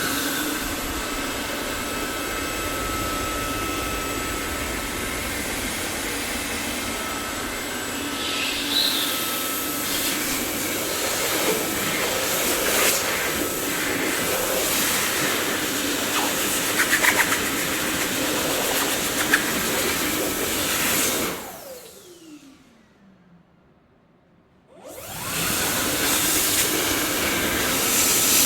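Dyson vacuum cleaner motor running with a steady whirring hiss and a few faint rattling clicks. About three quarters of the way through it is switched off and the motor whine falls in pitch as it spins down, then after a few seconds of near quiet it starts again at full speed.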